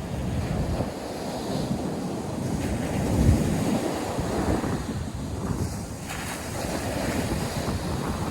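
North Sea surf breaking and washing on the beach, a steady rushing with uneven swells, loudest about three seconds in. Wind buffets the microphone with a low rumble.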